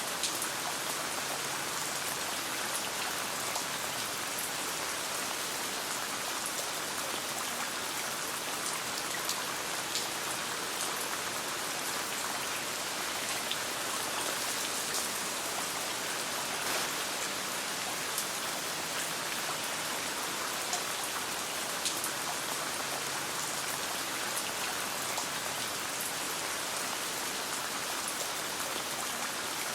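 Steady rain falling on a tent, with scattered sharp crackles and pops from a campfire.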